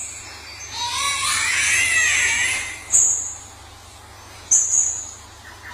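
A bird's drawn-out wailing call, wavering up and down for about two seconds, then two short, sharp, very high notes about a second and a half apart.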